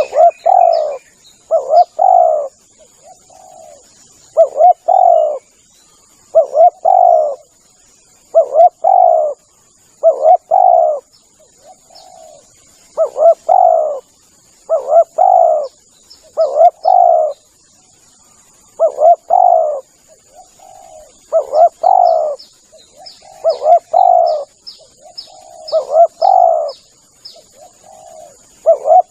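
Spotted dove cooing over and over, a loud phrase of a few coos about every two seconds, the call used as a lure for wild doves. Runs of high, quick chirps from a small bird come in now and then.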